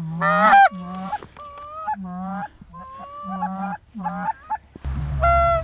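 A rapid run of Canada goose honks, many breaking from a low note up to a higher one, loudest about half a second in.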